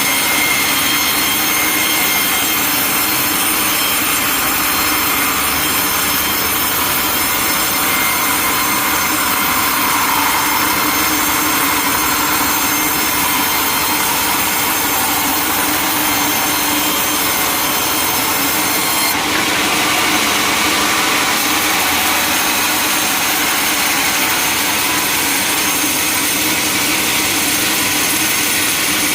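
Sawmill saw running through a log, a steady machine noise with a shift in tone about two-thirds of the way through.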